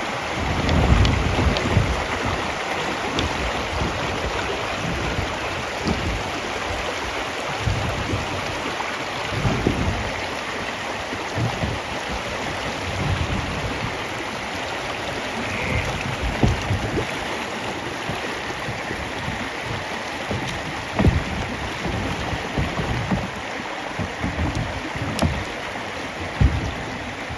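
River water flowing and rushing around a kayak, a steady hiss, with irregular low thumps and rumbles scattered throughout.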